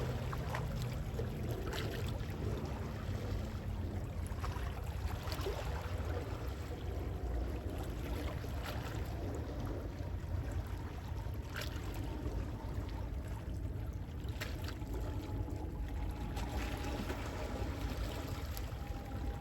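Calm sea waves lapping gently: a steady wash of water with small splashes now and then.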